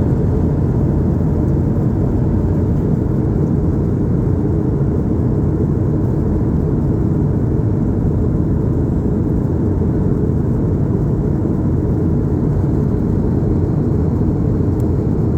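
Steady low rumble of an airliner's cabin in flight, a constant engine and airflow noise with no breaks.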